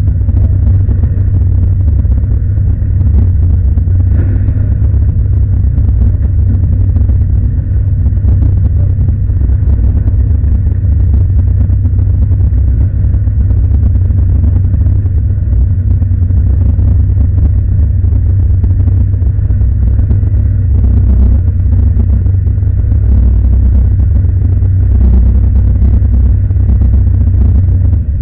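Opel Commodore A competition car's engine running steadily at idle while the car stands still, a loud low rumble heard from inside the cabin.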